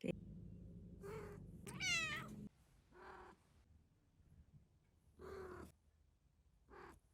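A domestic cat meowing about five times, each call separate. The loudest, about two seconds in, is drawn out and bends in pitch. A low steady hum underneath cuts off abruptly about two and a half seconds in.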